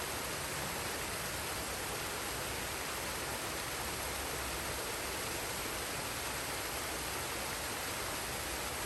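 Waterfall and forest stream rushing, a steady even wash of falling water with no breaks.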